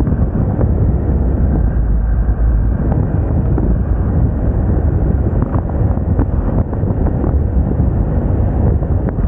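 Wind rushing over the microphone on a moving Moda Moca 110 scooter, with the scooter's small engine and tyre noise underneath as a steady low rumble.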